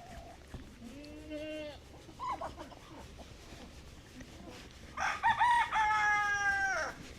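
A rooster crowing once, a loud, long call about five seconds in that drops in pitch at the end, after a softer, lower animal call about a second in.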